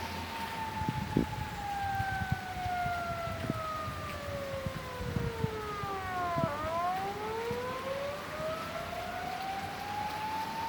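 A siren wailing slowly: its pitch falls steadily for about six seconds, then rises again. A few dull low thumps sound underneath.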